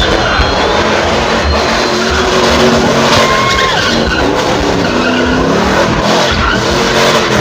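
A car drifting: its engine revving hard, the pitch rising and falling, with tires squealing as they slide.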